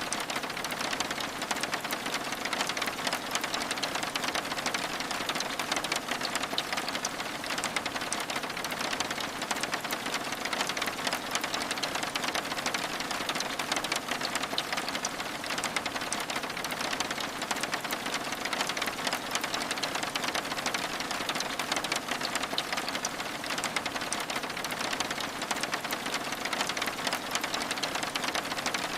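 Steady rain pattering on window glass: a dense, even spray of countless small drop ticks over a constant hiss, without a break.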